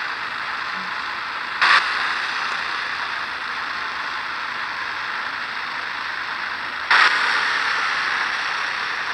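2008 Ford F-150's engine idling, with two short throttle blips, about a second and a half in and about seven seconds in. Each is a sudden surge that fades within a second or two, and the engine barely climbs in revs.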